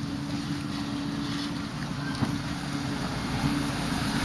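Street ambience dominated by a steady, unchanging motor hum, as of an idling vehicle or engine nearby, with a light rush of background noise.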